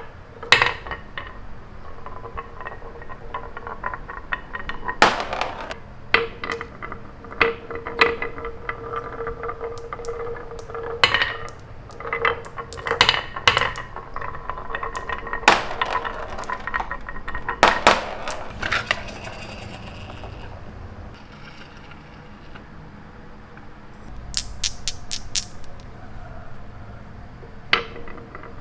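Small hard toy pieces clicking, knocking and clinking irregularly, some with a short ring, over a steady low hum; a quick run of about five clicks comes near the end.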